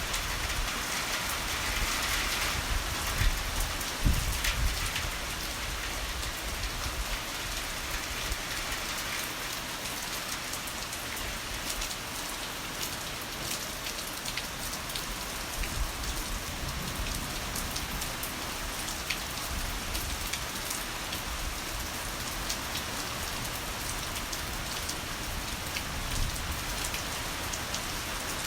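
Heavy rain pouring steadily, a dense hiss of drops. A low rumble of thunder swells through the first few seconds, then dies away.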